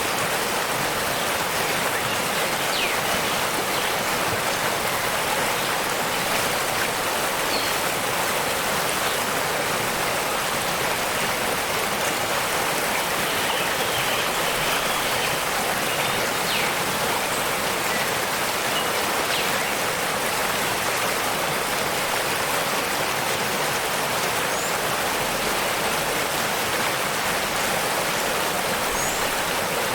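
Steady rush of a waterfall, a constant dense hiss of falling water that holds an even level throughout.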